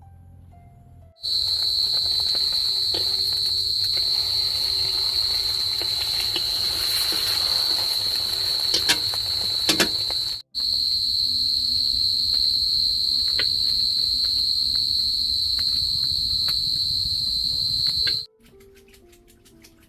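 Steady, high-pitched insect drone, an unbroken ringing tone, with a few faint clicks. It starts abruptly about a second in, breaks off briefly about halfway, and stops abruptly near the end.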